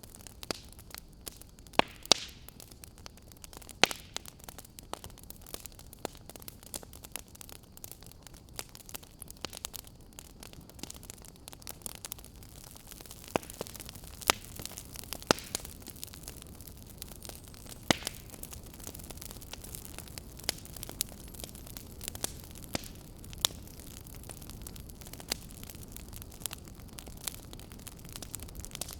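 Wood fire burning in a fireplace, crackling and popping with irregular sharp snaps over a steady soft hiss of the flames.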